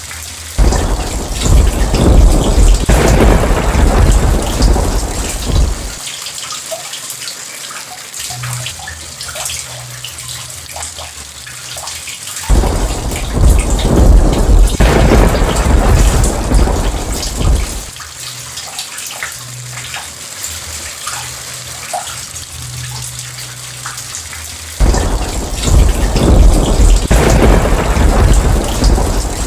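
Steady rain falling, with three long rolls of thunder about twelve seconds apart, each lasting some five seconds.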